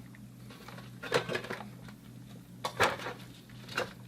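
Cleaning the inside of a 3/4-inch copper-to-PEX adapter fitting before soldering: three short metallic scrubbing strokes with light clinks.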